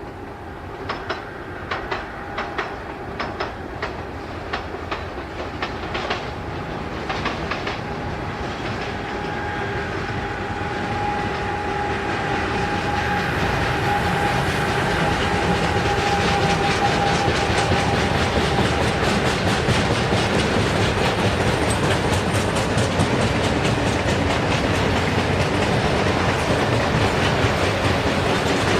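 A train running on the rails and drawing steadily louder as it comes close, its wheels clicking over the rail joints in the first several seconds before the sound becomes a steady, loud rolling of wheels on rail.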